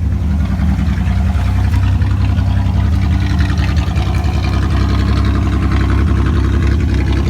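1986 Camaro's 2.8 V6 idling steadily through a straight-piped exhaust with no mufflers, a loud, fast, even pulsing note.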